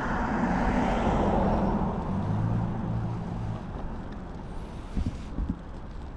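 Road traffic: a motor vehicle passing, its noise swelling to its loudest about a second in and then fading away, with a low engine hum through the middle.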